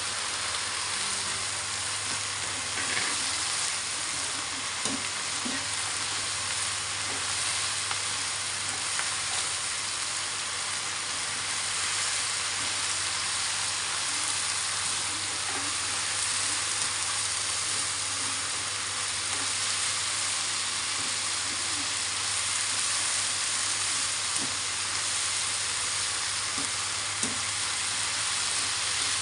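Stir-fry of tempeh, long beans and carrots sizzling steadily in a nonstick wok, with occasional light scrapes and taps of a metal slotted spatula stirring it.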